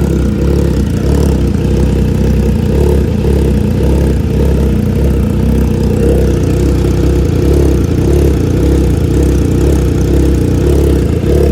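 Triumph Trident 660's inline three-cylinder engine idling steadily through a full aftermarket exhaust system, with a deep growl.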